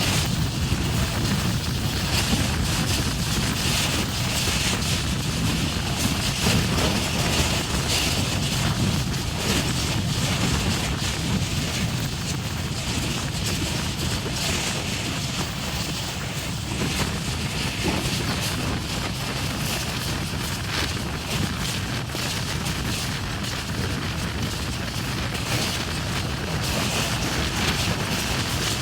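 Passenger train running at speed, heard from on board: a steady low rumble of wheels on track with wind rushing past the microphone.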